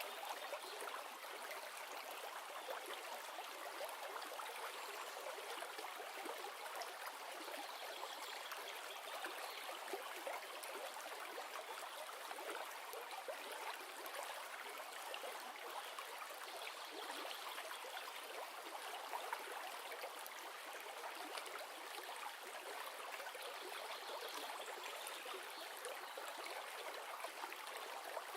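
River water flowing steadily, a continuous rush and babble with nothing deep below it.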